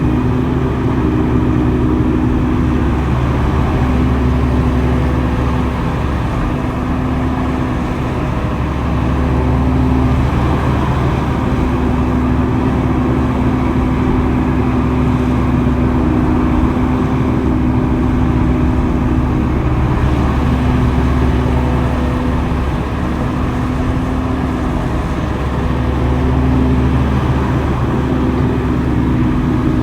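Heavy earthmoving machinery's diesel engine running steadily, a low drone whose pitch shifts slightly every few seconds as the load changes.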